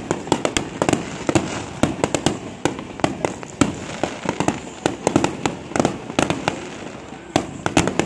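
Aerial fireworks shells bursting overhead, many sharp bangs in quick, irregular succession, several a second and overlapping.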